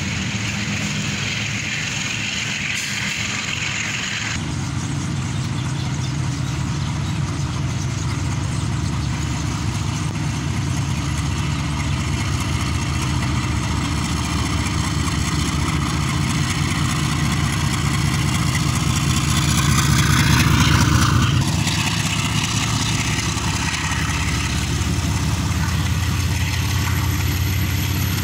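Diesel locomotive engine running under throttle: a deep, steady drone that gets heavier about four seconds in, then swells with a rising whine to its loudest near twenty seconds before easing back.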